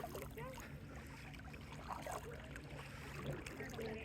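Boat engine running with a steady low hum, with faint voices in the distance.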